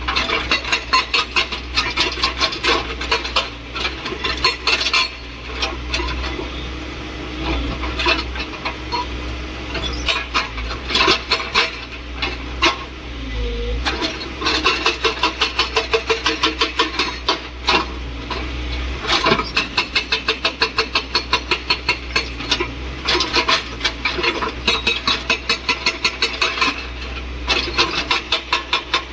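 Excavator-mounted hydraulic breaker hammering, a rapid run of sharp metallic blows that stops briefly a few times and starts again, over the steady low hum of the excavator's engine.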